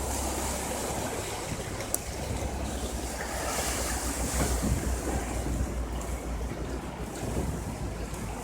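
Storm floodwater running as a fast current, a steady rushing, with wind buffeting the microphone.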